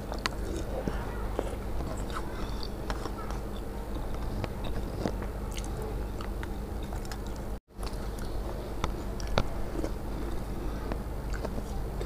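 Close-miked eating sounds: chewing and biting a mouthful of spicy pea curry with puffed rice, eaten by hand, with many small crisp clicks. The sound cuts out for an instant about two-thirds of the way through.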